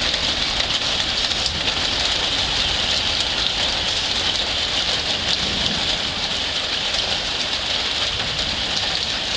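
Rain falling steadily during a thunderstorm: an even, unbroken hiss.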